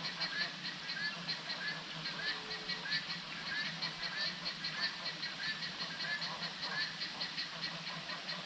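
Natural ambience of wild animal calls: a short rising call repeated about twice a second over a dense, fast high-pitched chirring.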